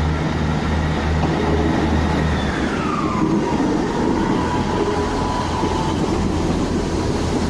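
Class 158 Express Sprinter diesel multiple unit pulling away, its underfloor diesel engines running with a low drone. About two and a half seconds in, a whine glides down in pitch and then holds steady for a few seconds.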